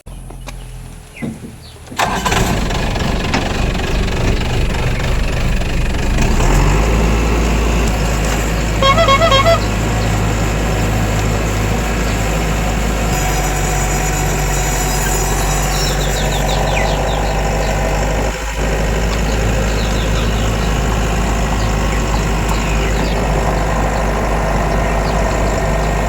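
Farm machine engine running steadily, coming in loud about two seconds in, with its low drone growing stronger about six seconds in. A short pulsing high-pitched tone sounds about nine seconds in.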